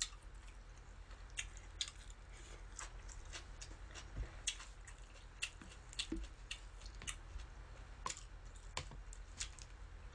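A person chewing food close to the microphone: irregular soft wet clicks and smacks of the mouth, over a steady low hum.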